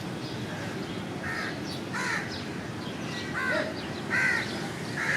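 Birds calling: a series of short, harsh arched calls, about six of them, spaced irregularly and loudest near the end, over a steady low background hum.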